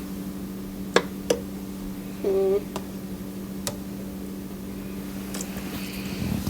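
Spoon clicking a few times against a pressure cooker pot while chicken and yogurt are stirred, over a steady low hum.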